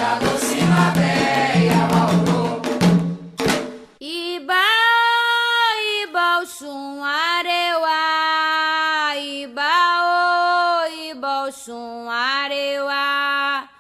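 Candomblé chant for Xangô: a group singing over hand drums and a rattle, breaking off about four seconds in. A single voice then sings the next chant alone in long held notes, sliding between pitches.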